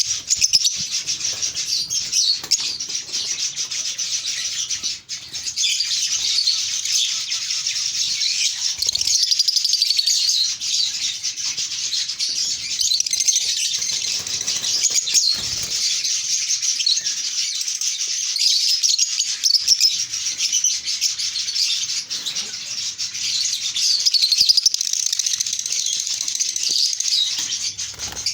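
A flock of lovebirds chattering, a continuous dense mass of high, shrill chirps from many birds at once.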